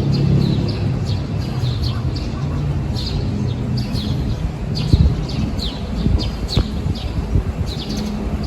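Small birds chirping busily, many short falling chirps in quick succession, over a steady low rumble and hum of city traffic.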